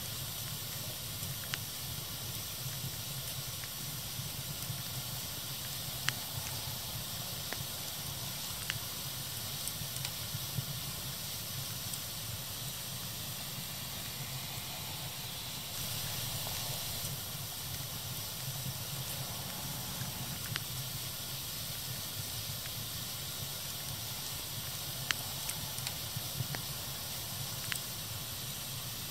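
Wood fire burning with a steady hiss and low rumble, broken by scattered sharp crackles and pops.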